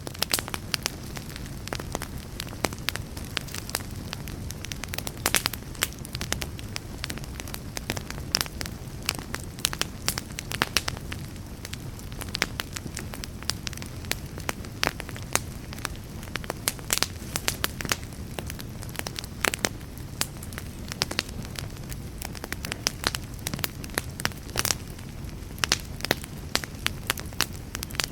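Fire burning with a steady low rumble and frequent sharp, irregular crackles and pops.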